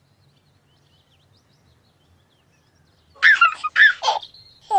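Birdsong: faint chirps, then about three seconds in a burst of loud, quick chirping calls that bend up and down in pitch, ending on a falling swoop.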